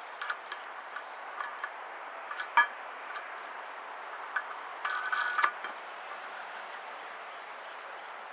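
Light scattered clicks and clinks of handling around the car, with a short squeaky creak about five seconds in, over a faint steady hiss. No engine cranking yet.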